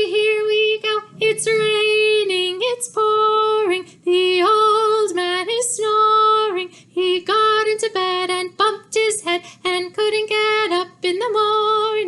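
A woman singing a simple melody unaccompanied, in a series of held notes.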